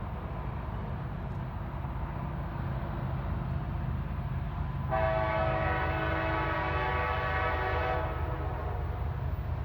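Norfolk Southern SD70ACe diesel locomotive's air horn sounding one long blast, about three seconds long, starting around five seconds in, over the steady low rumble of the approaching locomotive.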